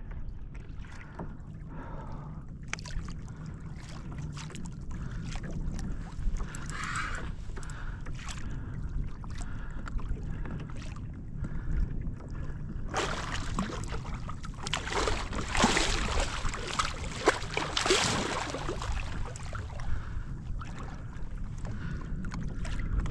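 Water sloshing and splashing against a kayak, over a steady low wind rumble on the microphone, with scattered light knocks. About 13 seconds in the splashing grows much louder for some six seconds, then settles back.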